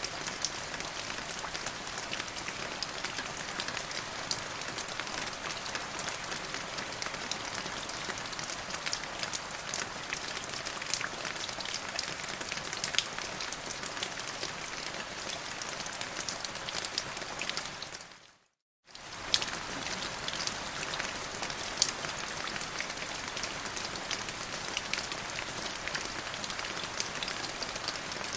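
Steady rain falling, an even hiss dotted with the ticks of single drops. About eighteen seconds in the rain fades out to silence for about half a second, then cuts straight back in.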